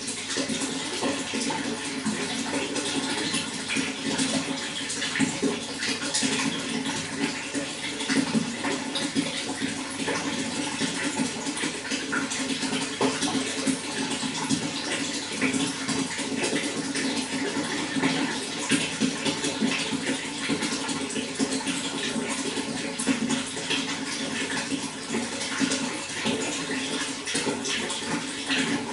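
Running water, a steady flow with constant small splashes.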